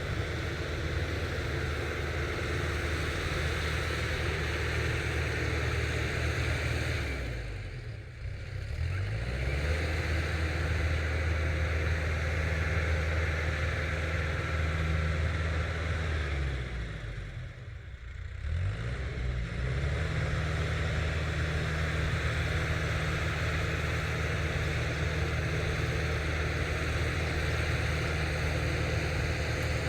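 Farm tractor's diesel engine running steadily while working a rotary tiller. Twice the engine slows, its pitch dropping and then climbing back up: once about a quarter of the way in, and again just past the middle.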